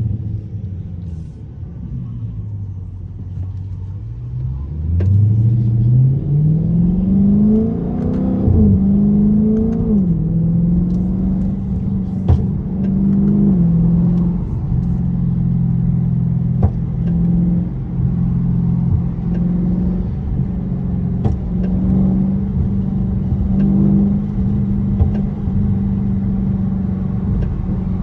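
Dodge Charger 392's 6.4-litre HEMI V8 under way: the engine note falls as it slows and stays low for a few seconds. The revs then climb through a gear change and settle into a steady cruise, with a few sharp clicks on top.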